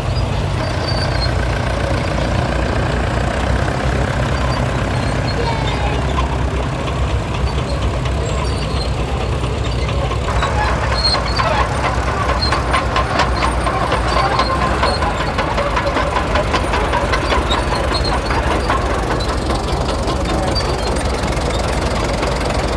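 An engine running steadily at low speed, with a quick run of clicks and a higher whine joining in from about ten seconds in until near the end.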